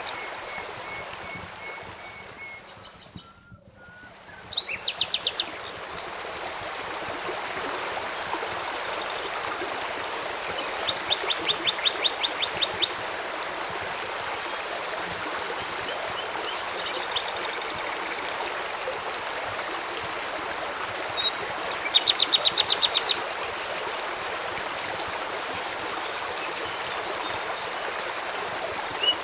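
Steady rush of a flowing stream with songbirds calling over it: a thin whistle at the start, then a few short, rapid trills, repeated three or four times. The water sound fades down briefly a few seconds in and swells back up.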